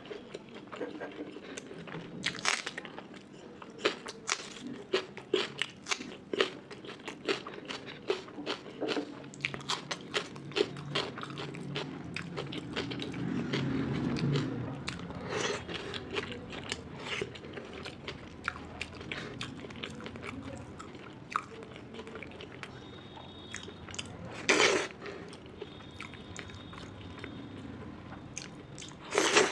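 Close-miked eating: steady chewing with many small wet mouth clicks and occasional crunchy bites, one louder bite about 24 seconds in.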